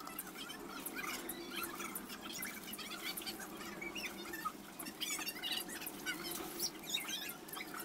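Small birds chirping: many short, high calls scattered throughout, over a faint steady low hum.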